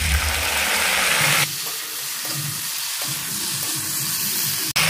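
Mixed vegetables sizzling in hot mustard oil in a wok as a watery ginger and radhuni paste is poured in and stirred with a spatula. A steady hiss that changes abruptly about a second and a half in and drops out for a moment near the end.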